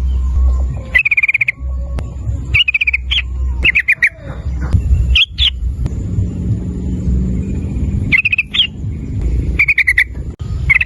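Yellow-vented bulbul (trucukan) singing short, rapid, bubbly chattering phrases, each about half a second long. They repeat every second or so, with a pause of a few seconds in the middle, over a steady low rumble.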